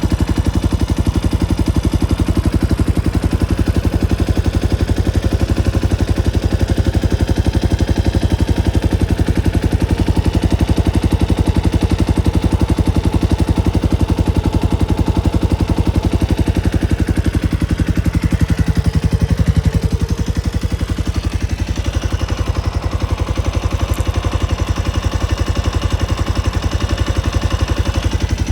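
Kawasaki Estrella RS's single-cylinder four-stroke engine idling, a steady even run of firing pulses.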